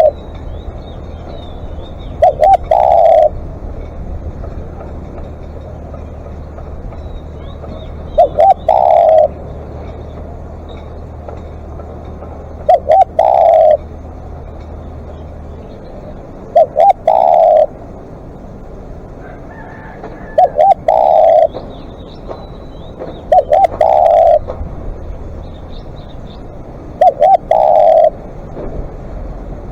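Spotted dove cooing, seven times, each phrase two short notes followed by a longer one, repeated every few seconds.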